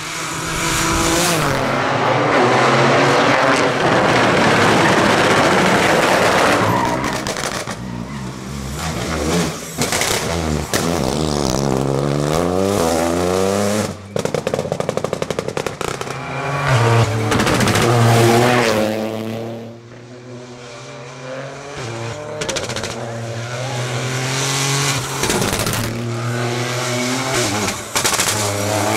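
Rally car engine revving hard, its pitch climbing and dropping again and again as it shifts through the gears. It settles to a quieter, steadier note for a few seconds about two-thirds of the way in, then picks up again.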